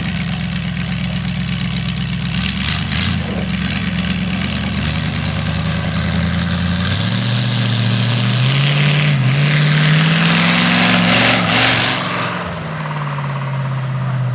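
Demolition derby car's engine running steadily, then revved up about halfway through, rising in pitch with a brief dip, before dropping back toward idle near the end.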